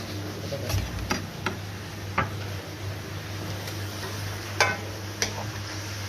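Kitchen sounds during cooking: a handful of irregular light clicks and knocks of utensils and cookware over a steady low hum, with faint sizzling from the pan of chicken simmering in lemon and water.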